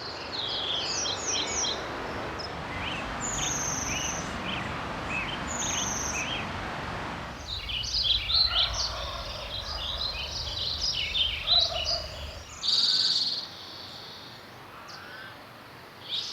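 Several wild birds singing and calling at once in a natural soundscape: many short chirps and trills overlapping. A steady rushing noise runs underneath for the first seven seconds or so, then drops away, and a short buzzy call comes about thirteen seconds in.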